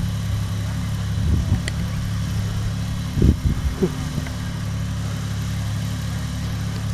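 Car engine running at a steady idle, a low hum that holds one pitch, with a few brief low sounds about three seconds in.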